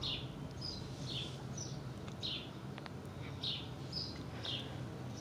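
A bird chirping repeatedly: a string of short, high, falling notes, roughly two a second.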